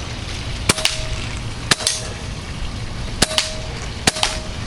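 Crosman Nightstalker .177 CO2 air rifle firing four shots about a second apart, each sharp crack followed a split second later by a second click, with a short ringing tone after each pair.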